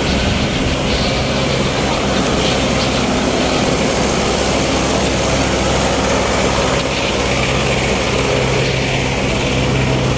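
Tractor diesel engine running steadily, its note firming slightly about seven seconds in.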